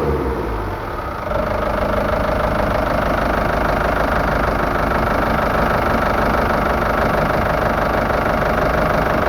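Sunfisher 780 boat engine idling. It dips briefly during the first second, then settles into a steady idle.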